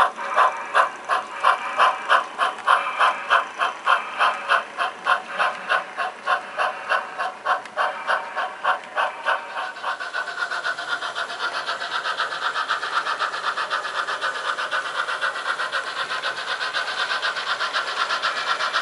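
Sound-equipped HO scale model steam locomotive chuffing through its speaker, about three exhaust beats a second, quickening to a faster, steadier beat about halfway through as the engine picks up speed.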